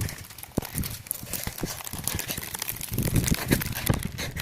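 Rain pattering as many small ticks close to the microphone, then a low rumble of thunder setting in about three seconds in.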